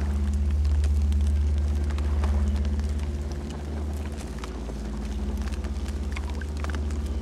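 Campfire burning: scattered sharp crackles and pops over a deep, steady rumble that swells and eases.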